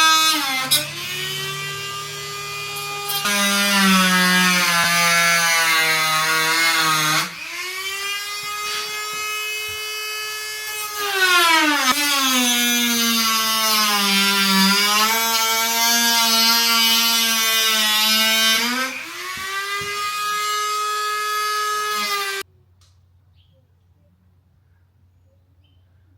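Electric power tool cutting the steel bumper, its motor whining at a high pitch that sags and recovers several times as it bites under load. It stops abruptly about three-quarters of the way through, leaving only a faint low hum.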